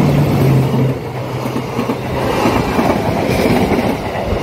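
Diesel-hauled passenger train passing close by: a steady rumble and clatter of wheels on the rails, with a low steady hum that stops about a second in.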